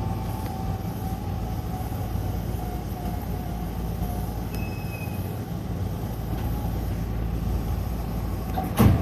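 Hankyu electric commuter train running slowly into a station, a steady low rumble with a faint whine, then a sharp clunk near the end.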